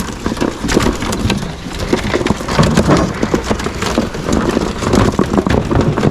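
Caged ringneck pheasants scuffling: dense rustling and clattering with many small knocks.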